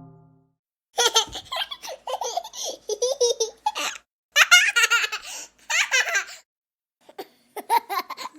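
A baby laughing in several bouts of high-pitched giggles, separated by short pauses.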